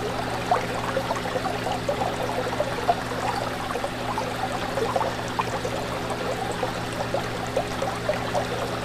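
Aquarium water bubbling and trickling continuously, many small quick bubble pops over a steady low hum.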